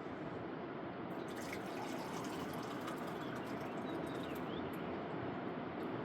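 Liquid running and trickling steadily, with faint drips.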